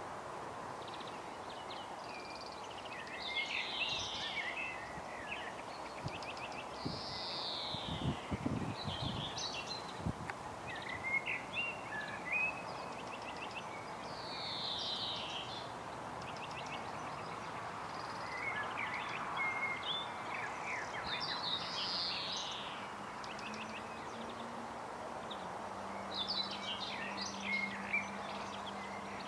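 Several songbirds singing and chirping in short, repeated phrases over a steady outdoor background hiss. A few low thumps come about a third of the way in, and a faint steady low hum starts near the end.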